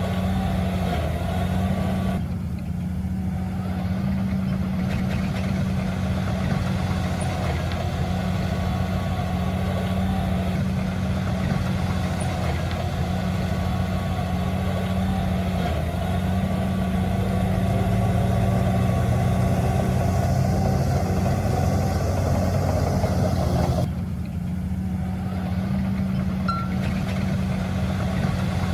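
Heavy diesel earthmoving machinery, a dump truck or bulldozer, running steadily at work, with two brief drops in level about 2 and 24 seconds in.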